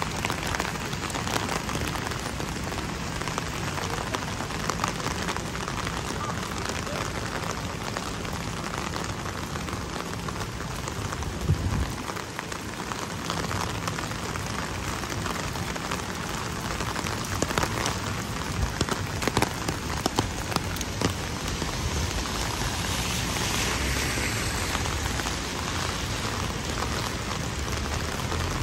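Heavy rain falling steadily, with many sharp, close drop hits over a dense hiss. There is a brief lull about twelve seconds in, and a few louder hits a little later.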